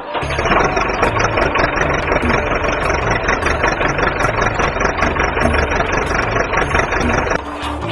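A steady engine-like running sound mixed with background music that has a steady beat.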